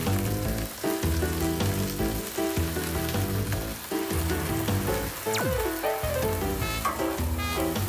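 Scallion pancake (pajeon) of whole scallions and batter sizzling on a hot oiled griddle, under background music. A single falling whistle sweeps down from high to low about five seconds in.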